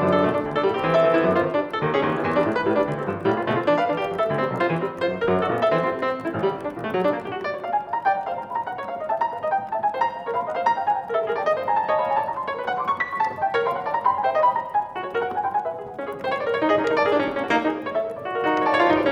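Piano playing: a dense, continuous flow of quick notes spread across the middle and upper range, growing a little louder near the end.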